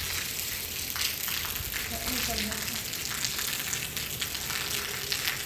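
Food frying in hot oil: a steady crackling sizzle.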